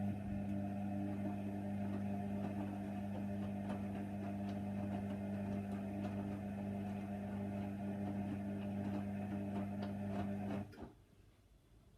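Hoover Nextra HNWL 7146 washer dryer running mid-wash on a Cotton 60 cycle: a steady motor hum with light clicks, which stops abruptly near the end.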